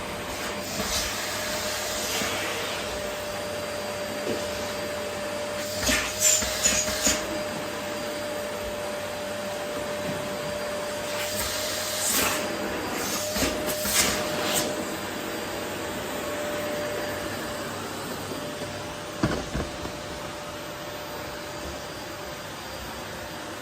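Vacuum cleaner running steadily on a wooden floor, a constant rushing airflow with a steady motor tone. Short clusters of sharp clicks and rattles break in three times: about six seconds in, again around twelve to fifteen seconds, and once near nineteen seconds.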